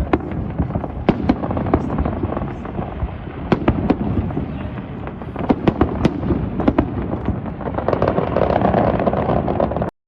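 Aerial fireworks going off: many sharp bangs and crackles, irregular and overlapping, over a continuous rumble. The sound cuts out abruptly near the end, a recording dropout.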